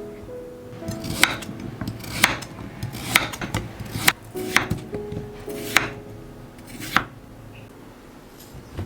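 Kitchen utensils knocking and clinking against dishes and pots: about ten sharp clinks, stopping a couple of seconds before the end, over soft background music.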